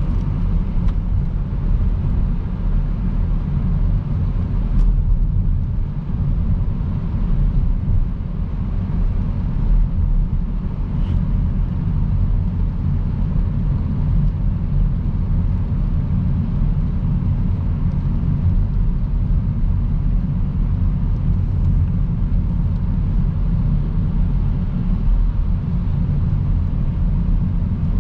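Steady low road rumble of a car cruising on a wet motorway: tyre and wind noise with the engine underneath, holding an even level throughout.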